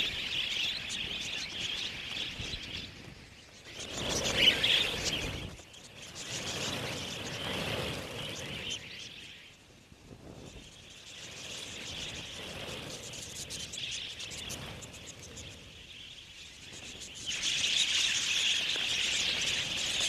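A large flock of budgerigars chattering, a dense mass of high chirps that swells and fades, with a louder rushing surge about four seconds in.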